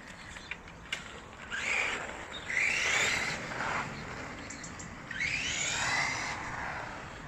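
Electric motor of a BSD Racing Prime Storm V2 RC truggy whining, rising and then falling in pitch, in two passes about two and five seconds in.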